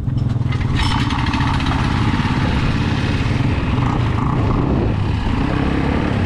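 Small off-road vehicle engine running steadily, with a busier, noisier note joining about a second in.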